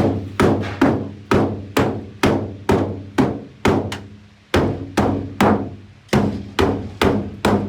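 Steady hammering: sharp hammer blows about two a second, with a brief pause a little past the middle before the blows resume.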